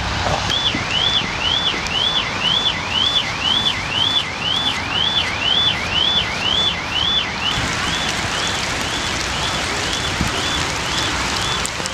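Car alarm sounding: a repeated rising electronic whoop, about two a second, over a steady hiss of rain and water. The whoops become a little fainter about two-thirds of the way through.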